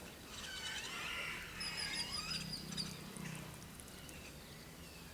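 Several small birds chirping and singing, their calls overlapping, busiest in the first three seconds and thinning out after, over a faint low hum.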